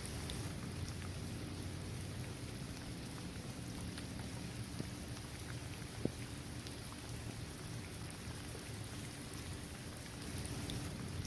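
Steady rain falling on a paved basketball court, trees and grass: an even hiss with scattered crisp drop ticks, and one sharper drop hit about six seconds in.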